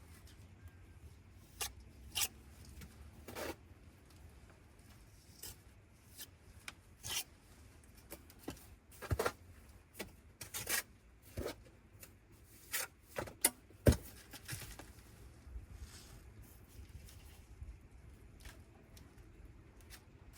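Hand tools scraping and tapping on brick and mortar during brick replacement: short, irregular scrapes and knocks, the sharpest knock about two-thirds of the way through.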